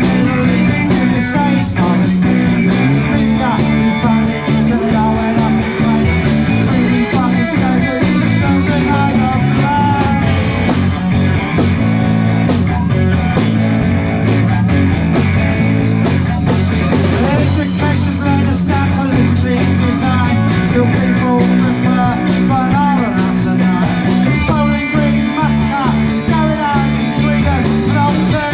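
Rock band playing live and loud: electric guitar, bass and drums, with bending guitar lines over a steady low bass.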